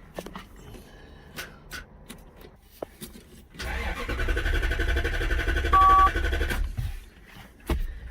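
1993 Lexus SC400's 4.0-litre V8 being cranked by the starter for about three seconds without firing, then stopping. It is a dry crank: the fuel pump is getting no power. A short two-tone beep sounds partway through the cranking, and a few clicks come before it.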